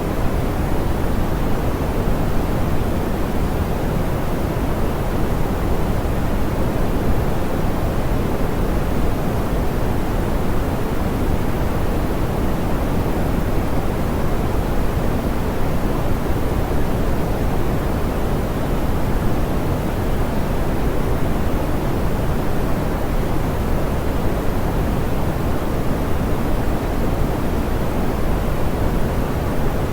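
Steady, soft pink noise: an even, unchanging hiss weighted toward the low end, with the highs rolled off.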